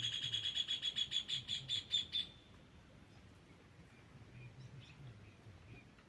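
A bird singing a fast trill of repeated high notes, about eight or nine a second, that stops abruptly about two seconds in; faint, scattered chirps follow.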